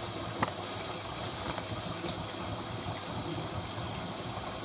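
Hoover A3060 Electronic 1100 washing machine taking in water at the start of a wash: a steady rush of water filling through the detergent drawer, with a single click about half a second in.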